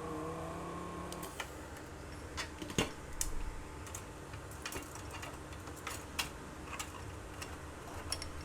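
Irregular light clicks and taps of small tools and parts being handled while working on a circuit board. A brief steady tone with overtones sounds in the first second or so.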